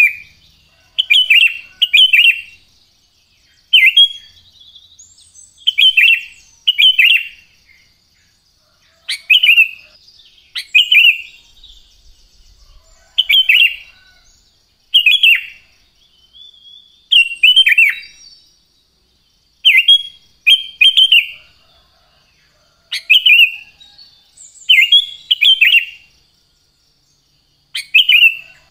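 Sooty-headed bulbul (kutilang) singing: short, loud whistled phrases repeated every second or two, often in quick pairs. A faint steady high tone runs behind them.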